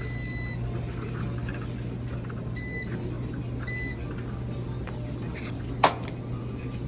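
A laundromat machine's control panel beeping three times, short high electronic tones, over a steady low machine hum. One sharp click comes near the end.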